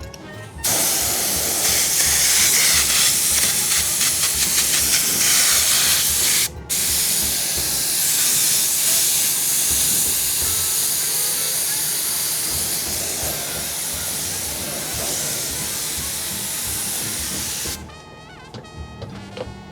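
Spray adhesive hissing out in a long continuous spray onto seat foam, stopping briefly about six and a half seconds in, then carrying on until it cuts off near the end.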